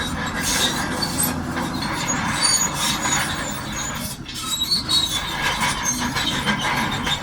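Crawler bulldozer working with its engine running, its steel tracks giving off many clanks and short high squeaks as it moves. There is a brief lull about four seconds in.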